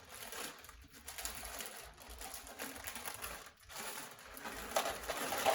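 Plastic bag of crunchy chow mein noodles crinkling and rustling in irregular crackles as it is handled.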